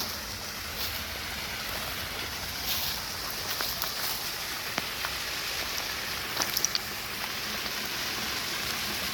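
Man-made waterfall: a steady rush of falling water, with a few brief sharp ticks, a small cluster of them about six and a half seconds in.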